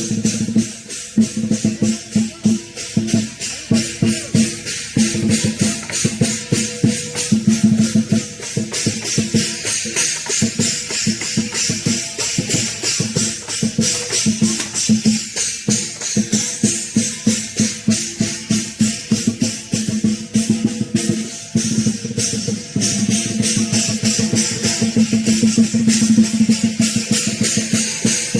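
Lion dance percussion: a big drum and clashing cymbals playing a fast, continuous run of strikes.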